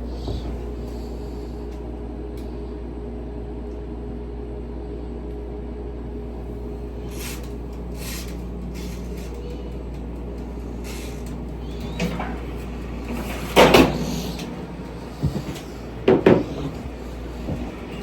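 Steady hum of a running kitchen appliance, with a few loud knocks like cupboard doors being shut in the last six seconds.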